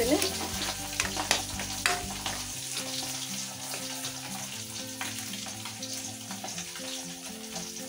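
Spice masala paste sizzling in hot oil in a steel kadai, with a steel spoon stirring and clicking against the pan in the first couple of seconds. The oil is starting to bubble up through the paste.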